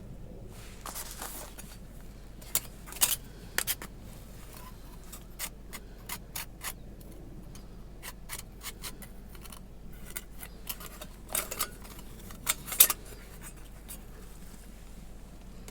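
Thin titanium plates of a flat-pack fire pit clicking and scraping against each other as the parts are fitted together by hand: scattered sharp metallic clicks with light scrapes, in clusters about 3 seconds in and again near the end, the loudest click about 13 seconds in.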